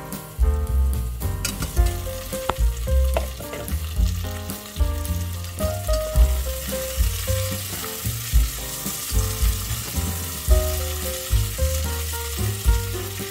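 Chicken pieces, onion and garlic sizzling as they fry in a stainless steel pot, stirred with a plastic slotted spatula; the sizzle grows louder in the second half. Background music with a bass line plays over it.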